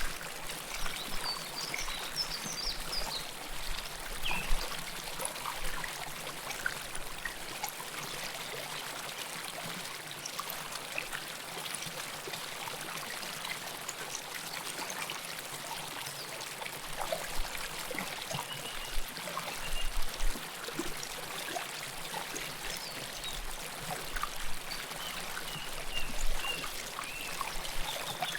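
River water flowing and splashing close up: a steady rush with small trickling splashes scattered through it. A few brief high chirps sit faintly above the water.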